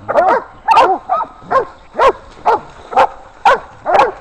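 Catahoula hog dogs barking steadily at a bayed wild sow, sharp barks coming about twice a second.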